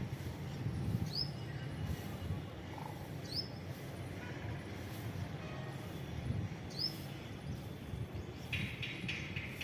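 Birds calling outdoors over a low steady rumble: short rising chirps every couple of seconds, then a burst of rapid, rattling calls near the end.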